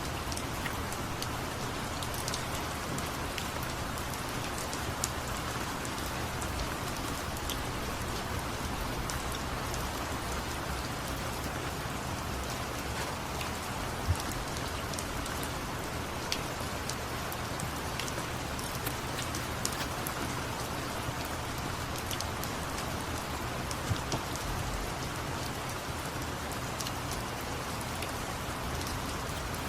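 Steady rain, with scattered sharp drop ticks striking a surface over the even hiss.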